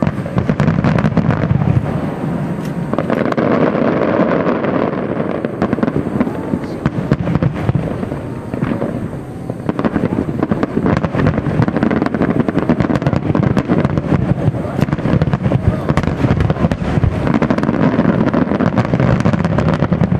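Aerial fireworks shells bursting in a rapid, continuous volley of booms and crackles, easing briefly about nine seconds in before building again.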